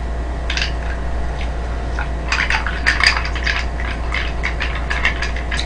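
Crunchy fried chicken being chewed close to the microphone: short crisp crackles in two clusters, around half a second in and again from about two to three seconds in, over a steady low hum.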